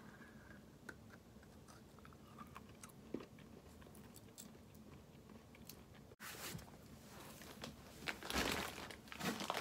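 Faint crunching and chewing of a crisp, crunchy chocolate candy ball in the mouth, with soft scattered clicks, growing a little louder near the end.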